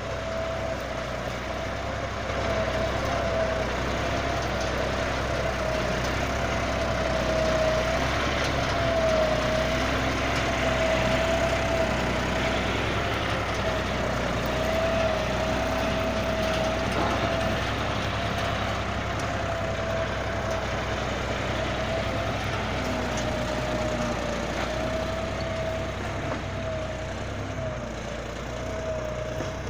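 Tractor engine running steadily at a constant speed, with a thin high whine that wavers slightly in pitch.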